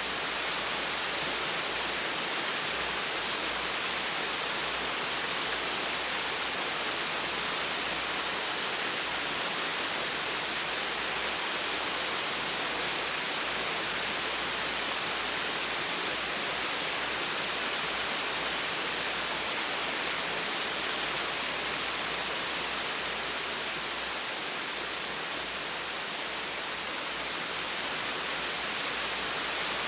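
Small, gentle waterfall with a steady, even rush of falling and splashing water.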